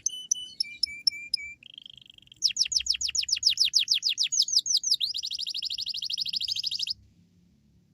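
Domestic canary singing a fast, varied song: quick trills of repeated falling notes, a few short steady notes, a buzzy phrase, then a rapid rolling trill that stops about seven seconds in.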